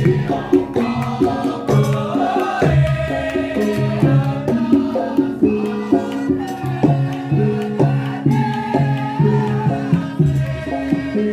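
Javanese gamelan music accompanying lengger dance: a gending with kendang hand drum and repeating struck metal notes, and a sung melody winding above them.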